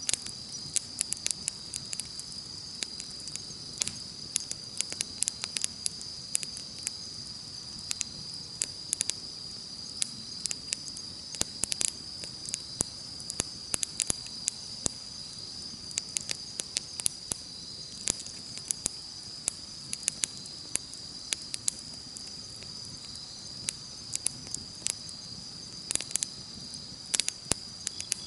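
Wood campfire crackling, with irregular sharp pops and snaps, over the steady high chirring of insects.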